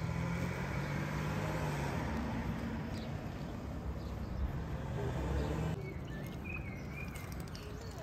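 Steady outdoor background noise with a low hum. A little short of six seconds in it changes to quieter outdoor ambience with a few short bird chirps.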